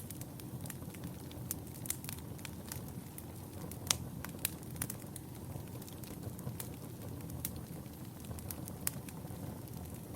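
Wood fire burning in a fireplace: a steady low rumble with irregular sharp crackles and pops, the loudest pop about four seconds in.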